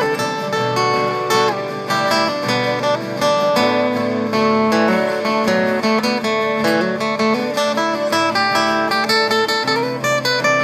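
Acoustic guitar playing an instrumental passage of picked and strummed chords, with no singing.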